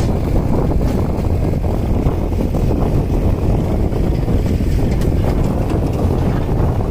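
Heavy diesel machinery running steadily, its low rumble mixed with wind buffeting the microphone, with a few faint knocks.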